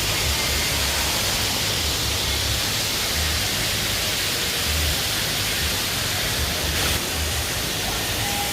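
Waterfall rushing steadily, a flat hiss of water with a low, uneven rumble underneath.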